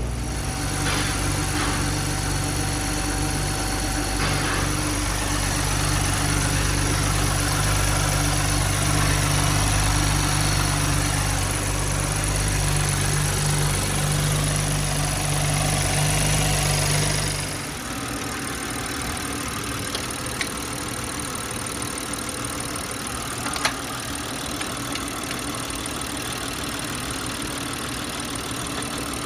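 BMW B58 inline-six engine running at idle. About two thirds of the way through, the loud steady low hum drops off suddenly, leaving a quieter even running noise with a few light clicks.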